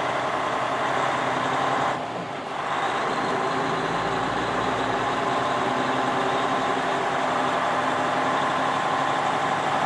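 Semi-truck diesel engine running steadily while the rig maneuvers into a parking spot, with a brief drop in level about two seconds in.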